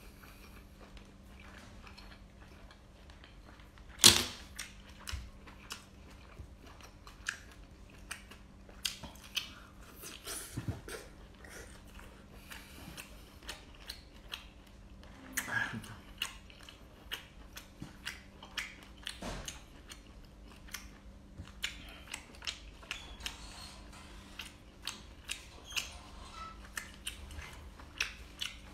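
Close-miked eating sounds: chewing with wet mouth clicks and smacks scattered throughout, and one sharp click about four seconds in. A faint steady hum lies underneath.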